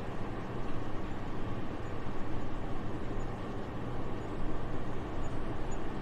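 Soft, steady winter wind: an even airy rush, heaviest in the low rumble, swelling and easing slightly.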